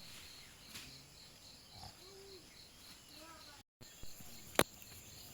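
Outdoor ambience with an insect chirping in a steady high pulse, about four a second, and faint distant voices. The sound drops out for a moment, and a single sharp knock comes a little past four seconds in.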